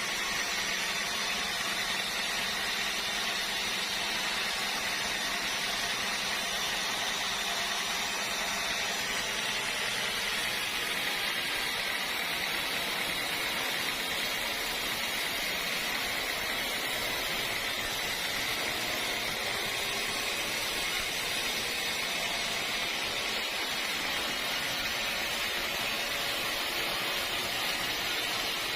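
Sawmill machinery running steadily: a constant, even hiss with a faint steady hum underneath.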